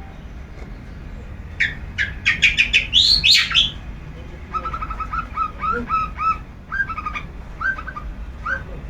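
Long-tailed shrike (cendet) calling: a fast run of harsh notes that climbs to its loudest, highest notes about three seconds in, then a longer string of shorter repeated chattering notes.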